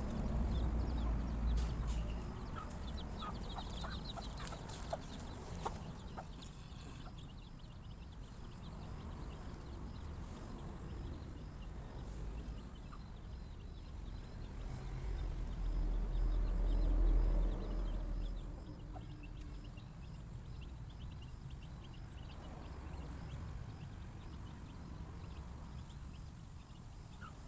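Chickens clucking, with scattered sharp clicks in the first few seconds and a low rumble at the start and again around two-thirds of the way in.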